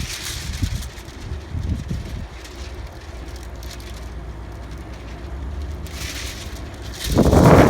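Steady low outdoor rumble, with a much louder rushing noise starting about seven seconds in.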